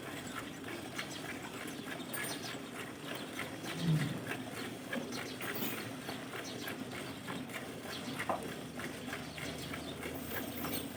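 Hand milking of a Banni buffalo: many short, irregular squirting strokes of milk into a pail. A brief low sound comes about four seconds in.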